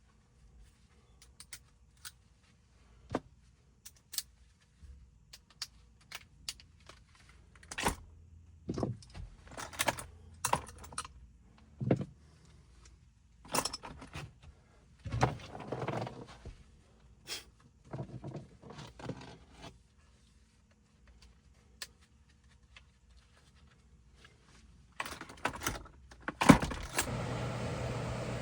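Irregular metallic clinks, clicks and knocks of tools and metal parts being handled. Near the end a loud knock, then a steady hum with an even rush of air starts.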